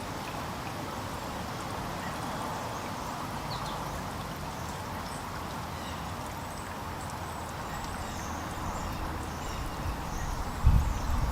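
Faint, high chirps of small birds, sparrows and juncos, over a steady background hiss. Near the end a loud low rumble comes in.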